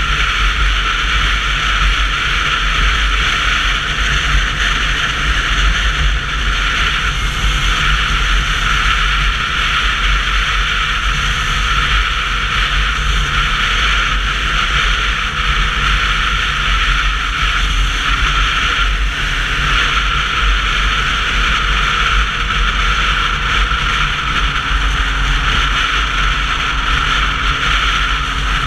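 Steady wind and road noise on a moving Sinnis Terrain 125cc motorcycle, picked up by a helmet-less GoPro microphone: a low rumble under a loud, even hiss.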